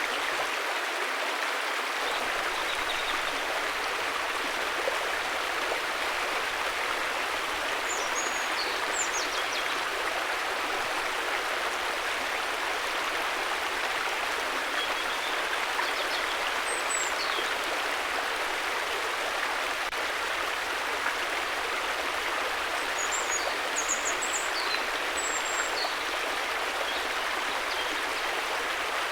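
River water rushing steadily, an even unbroken flow, with a few faint high chirps now and then.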